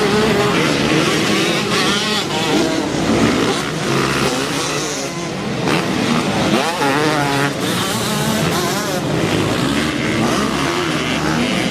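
Several motocross bikes' engines revving at once, their overlapping pitches repeatedly rising and falling as the riders open and close the throttle and shift gears.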